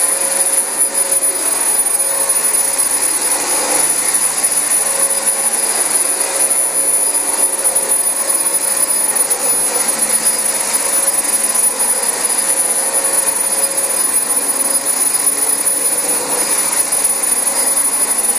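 Dyson DC25 upright vacuum cleaner running steadily on carpet: a continuous rush of air with a steady high-pitched whine.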